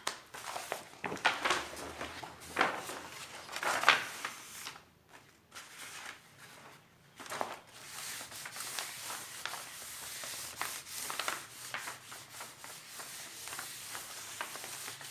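A plastic document-file sheet being handled and pressed flat to take out its folds. Sharp crinkles come in the first few seconds, then after a quieter moment a steady rubbing.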